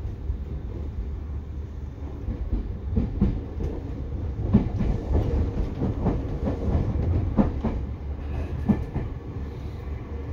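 Seibu 2000 series electric commuter train running, heard from inside the car: a steady low rumble, with a run of irregular clunks from the wheels over rail joints in the middle.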